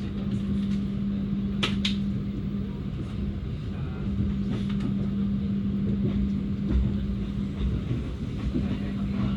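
Passenger train running along the line: a steady low rumble with a constant hum, and two sharp clicks close together about two seconds in.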